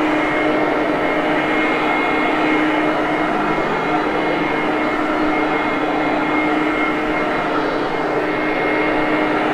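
Hoover Conquest upright vacuum running steadily on carpet, a constant motor whine over the rush of suction and its belt-driven brush roll.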